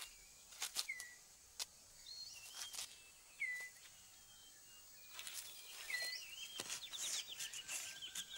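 Rainforest ambience: scattered short whistled bird chirps, some sliding down in pitch, and several brief dry rustles and clicks like leaves being moved on the forest floor.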